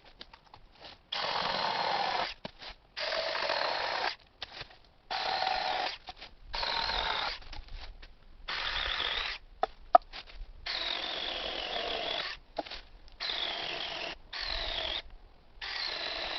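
Cordless 6-inch mini chainsaw cutting firewood in about nine short bursts of a second or so each, its motor pitch dropping under load during each cut. A sharp knock about ten seconds in.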